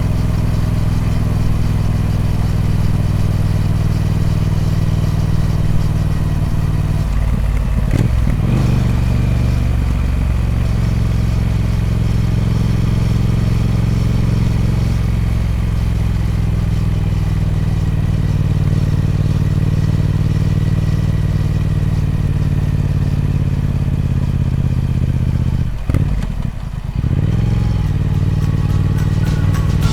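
Triumph Speed Twin 1200's parallel-twin engine running on its stock exhaust under way. The engine note dips briefly twice, about eight seconds in and again near the end, then settles back.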